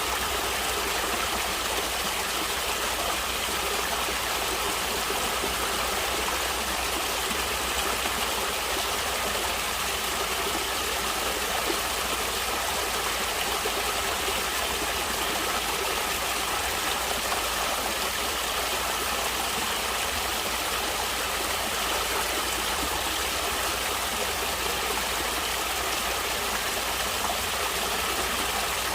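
Natural stream water flowing, a steady even sound that does not change.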